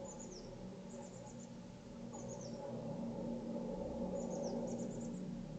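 Small songbirds chirping: short, high notes falling in pitch, in several quick clusters, over a steady low background hum.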